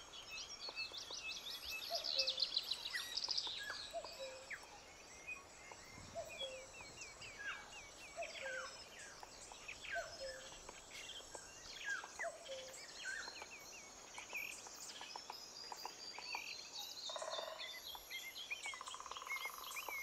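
Faint birdsong: a short call that falls in pitch, repeated every second or so, with higher trilling chirps over the first few seconds, over a low hiss.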